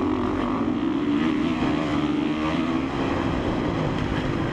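2017 Honda CRF450R's single-cylinder four-stroke motocross engine running hard under a rider, its revs dropping for a moment and then climbing again, with wind and track noise underneath.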